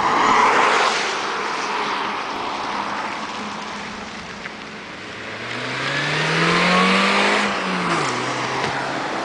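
A car rushes past close by at the start. Then the diesel engine of a VW Golf TDI accelerates toward the listener, its pitch climbing for about a second and a half and then dropping as it backs off, while its turbocharger fails and the car trails white smoke.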